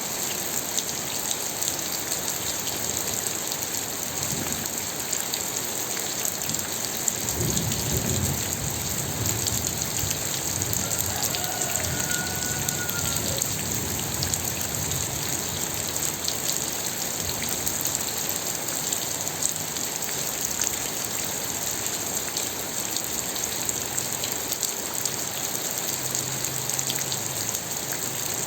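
Steady rain falling, a dense even patter. A low rumble joins it about a quarter of the way in and carries on underneath.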